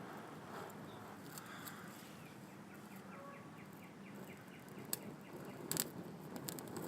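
Outdoor ambience of low wind rushing, with a bird giving a rapid run of short repeated notes, about four a second, from about two seconds in. A couple of sharp clicks follow near the end.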